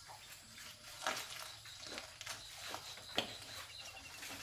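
A few light, sharp clicks and knocks, scattered irregularly, the loudest about three seconds in, over a faint steady high-pitched tone.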